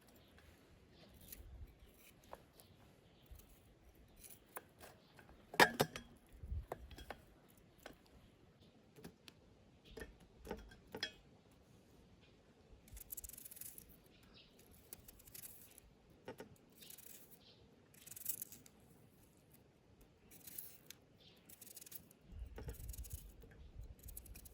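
Scattered clicks, taps and short scraping strokes of hand work at food preparation, with one louder knock about six seconds in.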